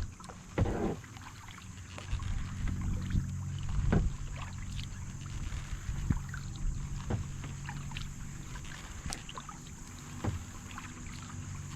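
Kayak paddling: paddle strokes through the water with drips and scattered light knocks, over a steady low rumble.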